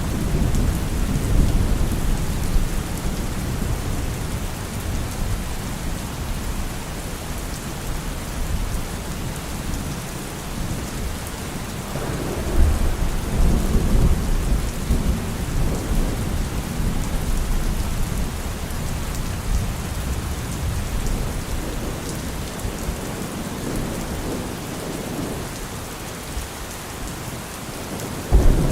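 Steady rain falling on trees, with low rolling thunder that swells and fades, loudest near the start and again about twelve seconds in.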